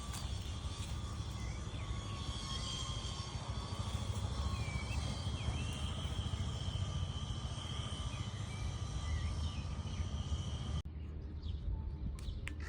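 Steady outdoor background noise: a low rumble under an even high-pitched drone, with a few faint chirps. About eleven seconds in it cuts abruptly to a quieter background with a few clicks.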